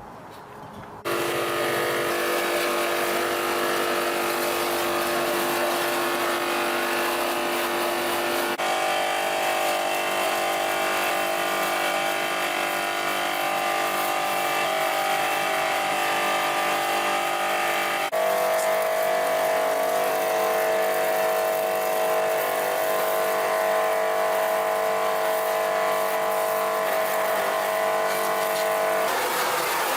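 A machine running steadily at constant speed, a steady multi-tone hum that starts abruptly about a second in; its tone changes suddenly twice, about a third and two thirds of the way through.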